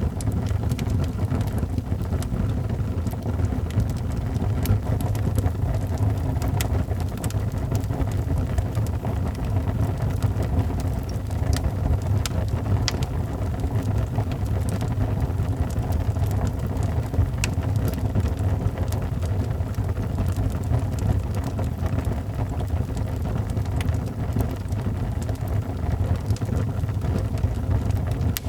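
Wood fire crackling in a fireplace: a steady low rumble with scattered sharp pops.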